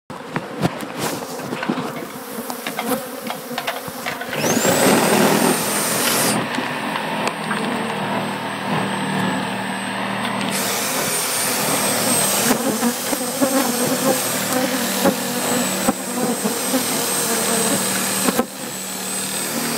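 Honeybees buzzing around an opened hive, with scattered clicks and knocks in the first few seconds. At about four and a half seconds a dense steady hum swells up, joined by a thin high whine that rises and then holds.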